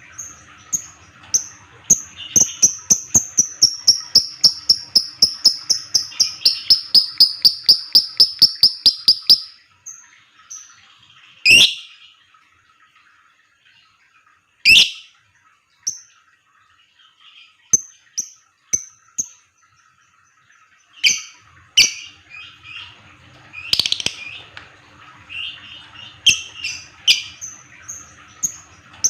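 Lovebird calling: a long run of rapid, sharp, high chirps that quickens over about nine seconds, then scattered single shrill chirps, then chattering again near the end.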